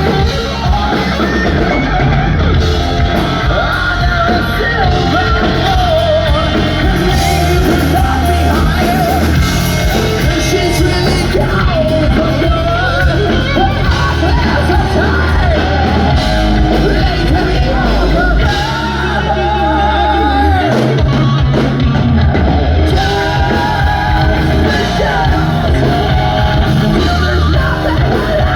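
Hard rock band playing loud live, a singer belting and yelling over heavy bass, guitar and drums, with the echo of a large room.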